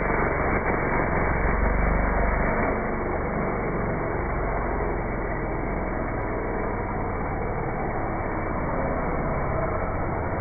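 Motocross dirt bike engine running, a rough, steady noise with a heavier low rumble for the first couple of seconds.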